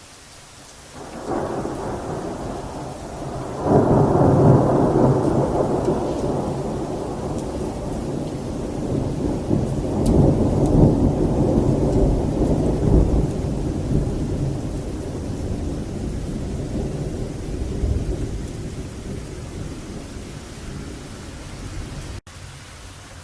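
Rolling thunder from a strong thunderstorm over steady rain. A rumble begins about a second in and a much louder peal follows a few seconds later, then it rumbles on for over fifteen seconds and slowly fades. The sound cuts off abruptly near the end.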